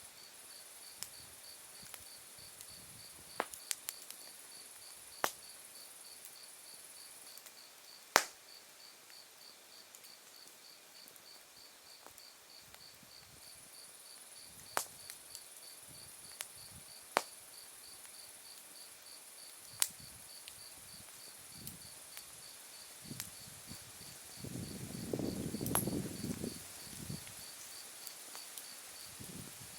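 Autumn insects singing: a cricket chirps steadily at about two to three chirps a second over a higher continuous trill. Burning firewood pops sharply now and then, the loudest pop about 8 s in, and there is a brief low rumble near the end.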